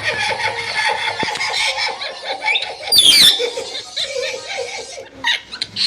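Parrot chattering in a laughter-like run, with one loud, shrill squawk about three seconds in and a few short cries near the end.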